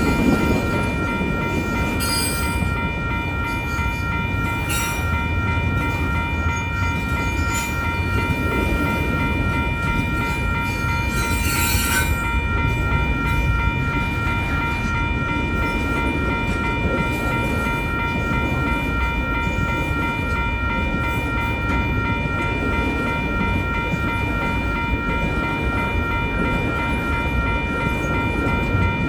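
Union Pacific intermodal freight train rolling through a grade crossing: a steady rumble of wheels on rail, with a few brief sharp clanks or squeals. Above it run the steady ringing tones of the crossing's warning bell.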